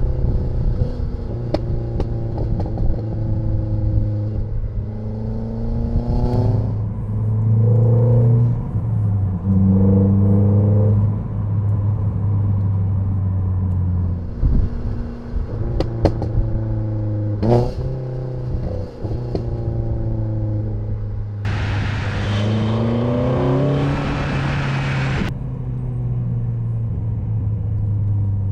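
Renault Sandero R.S.'s 2.0-litre four-cylinder engine heard through its intake and exhaust while driving, the pitch stepping down and rising again with gear changes and throttle. About 21 seconds in a loud rushing hiss joins for about four seconds as the revs climb, and a few sharp clicks stand out.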